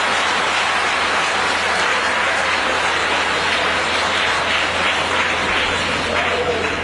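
Audience applauding steadily, a dense even clapping that holds at the same level and then cuts off abruptly, over a steady low hum.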